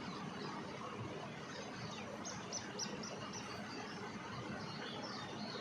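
Steady outdoor background hiss with a small bird giving a quick run of five high chirps, about four a second, a little past two seconds in.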